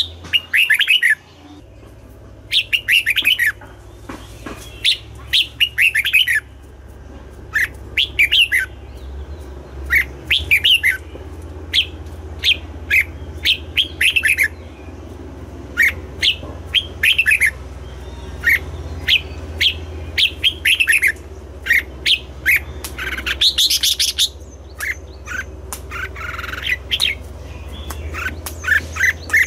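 Red-whiskered bulbul singing: short, loud phrases of quick, sweet chirping notes, repeated every second or two, over a steady low hum.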